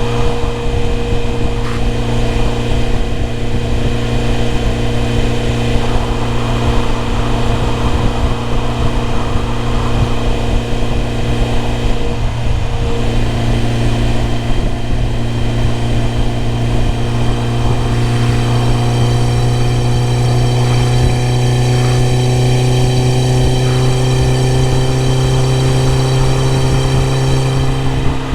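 BMW E30 M3's four-cylinder engine running at a steady pitch, which rises slowly over the last ten seconds.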